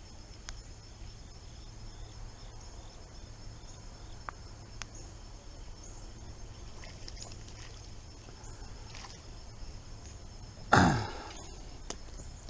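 Outdoor ambience: faint, steady insect chirring over a low, steady rumble, with a few light ticks, and one loud, brief thump about eleven seconds in.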